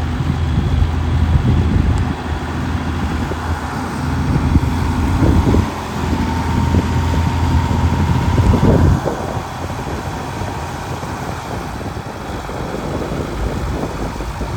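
Cockshutt 1855 tractor engine running: louder and uneven for the first nine seconds or so with a couple of brief rises, then settling to a steadier, quieter idle.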